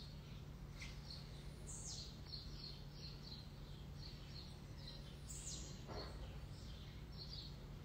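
Small birds chirping faintly: many short, high calls throughout, a couple of them sweeping quickly downward, over a faint steady low hum.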